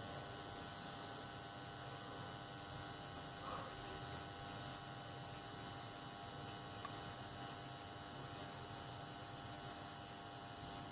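A faint, steady electrical hum with several constant tones, and a soft brief sound about three and a half seconds in.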